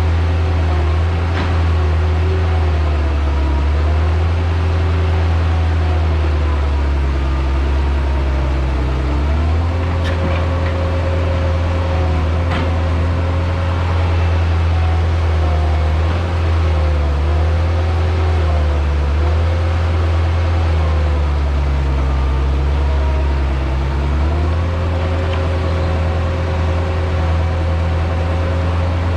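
Heavy earthmoving machine's diesel engine running steadily, its pitch dipping and recovering a few times as it works.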